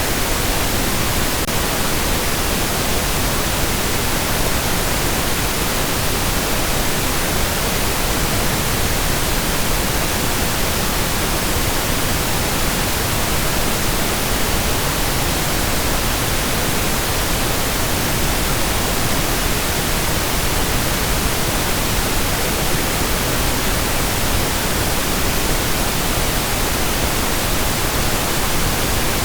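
Steady synthetic pink noise: an even, unbroken hiss spread across all pitches, softer in the highs than white noise.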